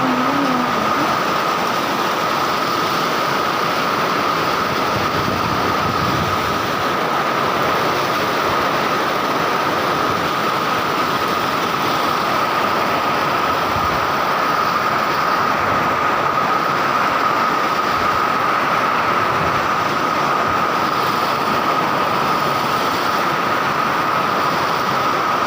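Strong wind blowing steadily: an even rushing noise with one steady high whistle running through it.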